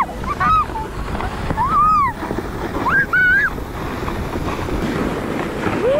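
Wind rushing over the microphone during a sled ride down a snowy slope, with a child's short high-pitched squeals several times.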